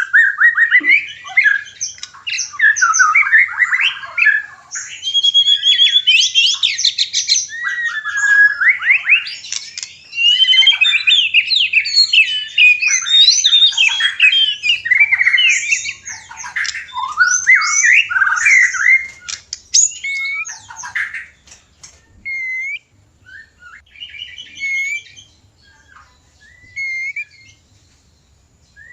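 White-rumped shamas giving fast, varied courtship song and calls, typical of a pair in breeding condition. The dense song thins to short, separate chirps about two-thirds of the way through.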